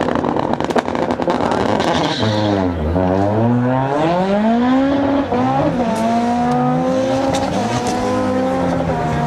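Race car engine revved hard with its pitch swinging up and down, then climbing steadily from about six seconds in as the car accelerates away down the strip in an acceleration run.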